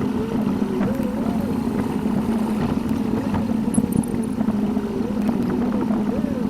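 Car engine and road noise inside the cabin, sped up eight times: a steady drone with an engine tone that rises and falls about once a second as the car speeds up and slows down.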